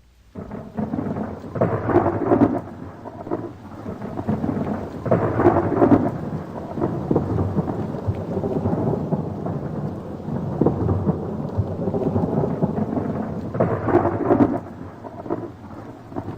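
Thunderstorm: rumbling thunder over rain, swelling loudest about two seconds in, again around five to six seconds, and near the end.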